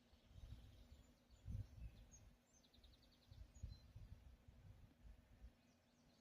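Faint outdoor ambience: an uneven low rumble with a few distant bird chirps, including a short, quick trill about two and a half seconds in.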